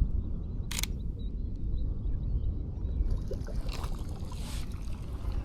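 Sony A6700 camera shutter firing a short, sharp burst about a second in, over a steady low rumble.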